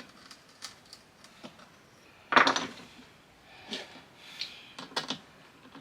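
Hand tools working on plywood: scattered small clicks and taps, with one louder scraping clatter about two and a half seconds in, as a bradawl and screws are set into a plywood drawer front.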